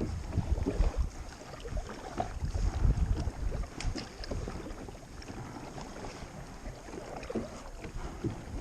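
Water splashing and lapping around a kayak as it is paddled, with irregular small splashes and clicks. Wind rumbles on the microphone in gusts, strongest in the first few seconds.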